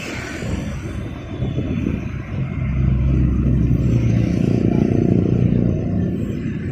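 Street traffic with engines running, and one vehicle passing close and loud from about two and a half seconds in until near the end.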